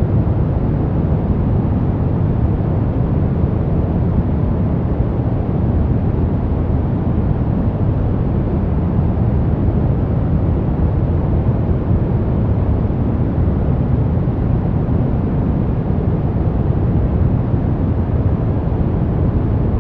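Brown noise: a steady, deep rushing hiss, strongest in the bass and dull in the treble, with no changes.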